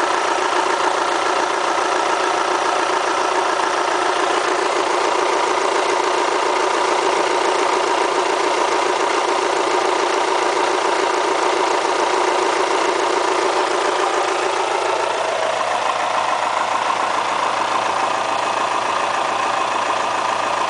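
Kia Spectra petrol engine idling steadily with a diesel-like clatter, which the owner worries may be a fault at 90,000 km. Its tone shifts slightly about fifteen seconds in.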